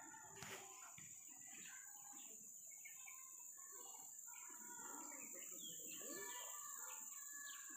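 Faint birds chirping and calling over a steady high-pitched hiss.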